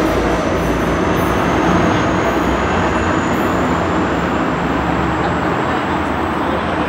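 Coaster commuter train with an MPI F40PHM2-C diesel locomotive moving away from the platform: a steady rumble of wheels on rail that slowly eases off. A faint thin whine rises slowly high above it.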